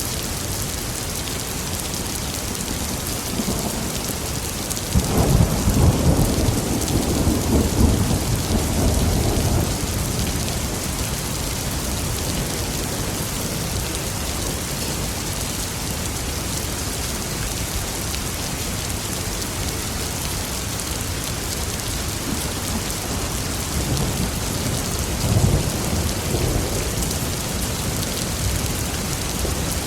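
Steady heavy rain hissing, with a loud rolling rumble of thunder about five seconds in that lasts around five seconds, and a weaker roll of thunder past the middle.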